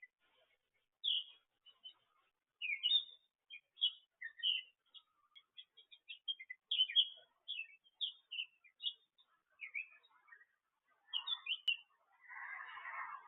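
Small birds chirping: a run of short, high, quick chirps, some sliding down in pitch, with a few seconds of denser, noisier sound near the end.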